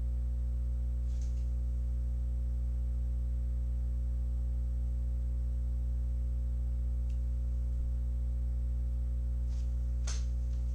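Steady low electrical hum with a row of evenly spaced overtones, and a couple of faint short noises near the end.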